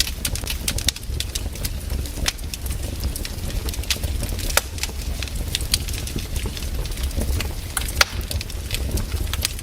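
Wood campfire burning, with sharp crackles and pops at irregular intervals. A steady low rumble runs underneath.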